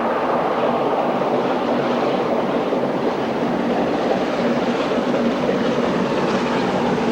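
Steam locomotive Mallard, an LNER A4 Pacific, running with a train: a steady, unbroken noise of the moving train with no separate exhaust beats standing out.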